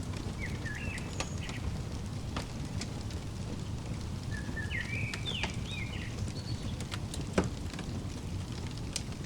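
A fireplace crackling, with a steady low rumble and scattered sharp pops, the loudest about seven seconds in. Over it a small bird chirps in two short bursts of quick rising and falling notes.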